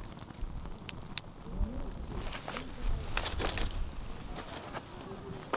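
Wood campfire crackling, with two sharp pops about a second in and a burst of crackling around the middle, over a low rumble.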